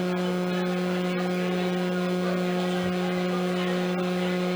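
Steady electrical hum, a low tone with several evenly spaced higher overtones, holding level throughout.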